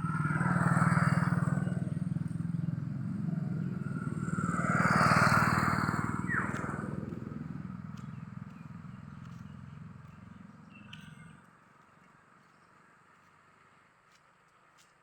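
A motor vehicle's engine running, growing louder twice, about a second in and again about five seconds in. It fades away and drops out at about eleven seconds, leaving only faint ticks.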